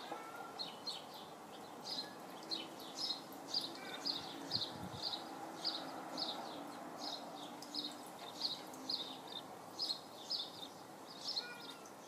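A small bird singing a long, even run of short, high repeated notes, about two or three a second.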